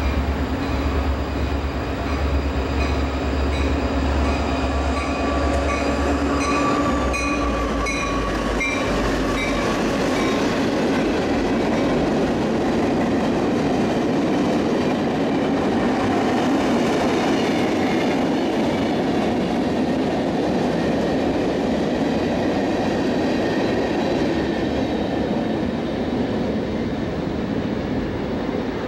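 A work train passing: its EMD GP-series diesel locomotives go by with a deep engine rumble over the first nine seconds or so. A long string of freight cars follows, rolling past with steady wheel noise and clatter.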